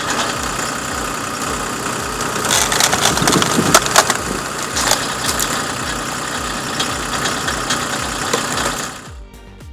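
A wood-processing machine running under load while wood cracks and splinters, with a cluster of sharp cracks near the middle, the loudest about four seconds in. The sound stops abruptly about nine seconds in.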